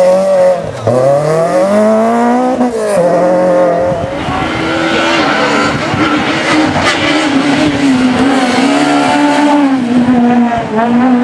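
Rally car engine at high revs, climbing in pitch twice over the first three seconds with a drop between on an upshift, then holding a steady high pitch with small wavers.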